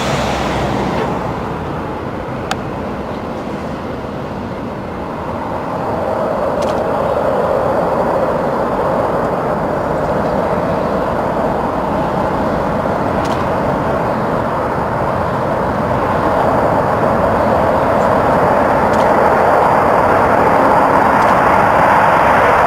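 Jet engines of Blue Angels F/A-18s on takeoff: a loud, continuous jet roar that swells about six seconds in and grows louder again over the last several seconds. A single sharp click comes a couple of seconds in.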